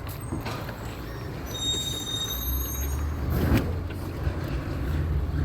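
Recycling truck's engine running low, with a high brake squeal lasting about a second and a half and a brief hiss of air a little after it.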